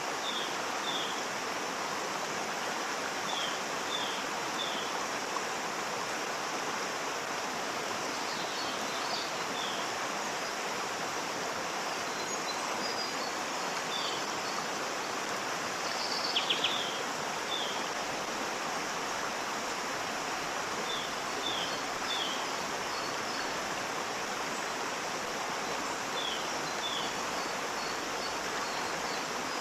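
Waterfall rushing steadily. Short high bird chirps, often two or three in quick succession, sound over it every few seconds, with a louder little burst of chirps about halfway through.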